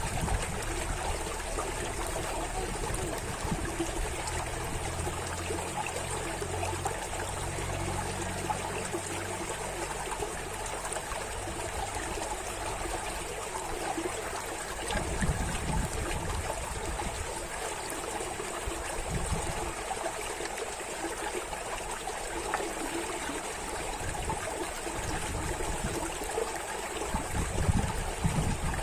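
Running water, a steady rush with no break, with irregular low rumbles coming and going underneath.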